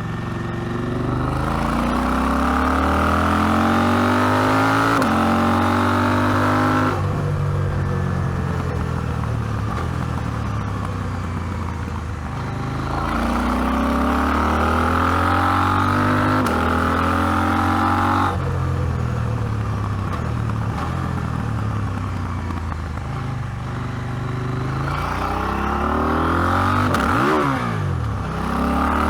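KTM 790 Adventure's parallel-twin engine accelerating, its revs climbing for several seconds at a time, then dropping abruptly twice as the throttle closes. Near the end the revs dip and rise quickly before it pulls again.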